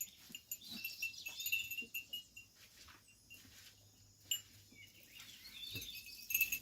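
Faint birds chirping and twittering, with a brief knock about four seconds in.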